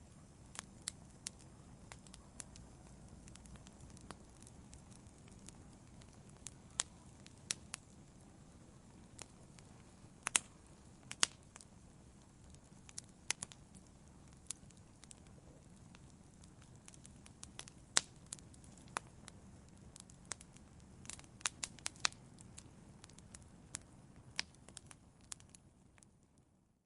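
Wood fire in a fireplace crackling: a steady low hiss and rumble of flames with sharp pops and snaps at irregular moments, a few of them louder than the rest.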